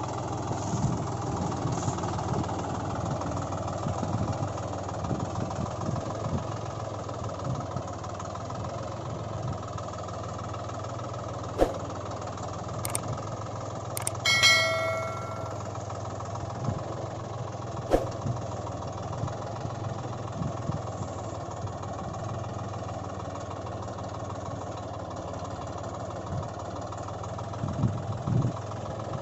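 An engine running steadily at idle, with a few sharp clicks and one short bell-like ring about halfway through.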